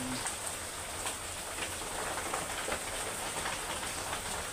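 Steady rain falling, a constant hiss with scattered taps of drops.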